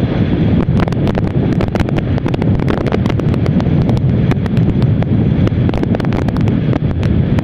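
Wind rushing and buffeting over the microphone of a moving motorcycle, a steady loud rumble with frequent crackles, with the bike's running noise underneath.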